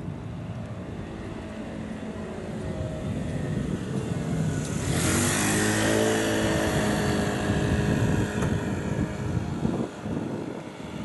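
Electric commuter train pulling into a station and slowing: a whine from its motors falls steadily in pitch over several seconds under the rumble of the wheels. A loud hiss comes in sharply about five seconds in.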